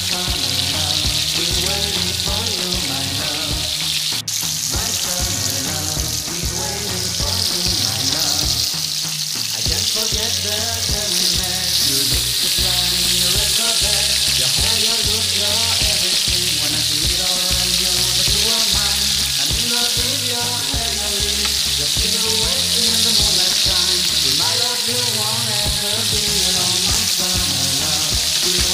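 Chapli kabab patties sizzling steadily as they shallow-fry in oil on a flat pan, under background music.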